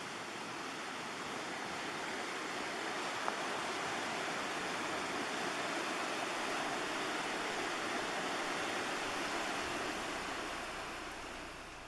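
Madawaska River rapids rushing: a steady wash of white water that fades out near the end.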